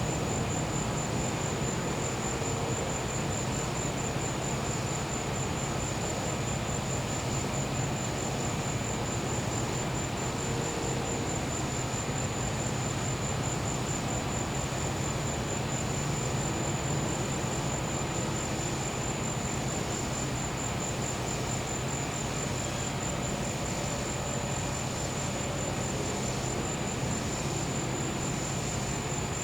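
Crickets trilling in one high, finely pulsing tone over the steady low hum of a gas-powered generator.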